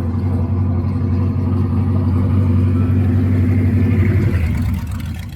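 Vehicle engine running loud and close with a steady low note, fading away about four and a half seconds in.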